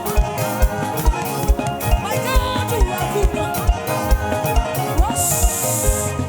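Live band playing upbeat praise music with no singing: a kick drum on a steady beat about twice a second under sustained chords and bending lead lines. A bright cymbal wash rises about five seconds in and cuts off about a second later.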